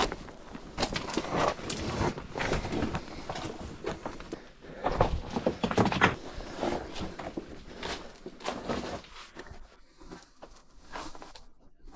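Irregular footsteps and rustling of a hiker walking, uneven soft thumps, a little quieter near the end.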